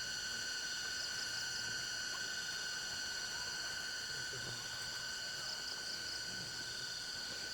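Steady insect chorus: several high, continuous trills sounding together. Short pulsed chirps stand out about a second in and again around five and a half seconds.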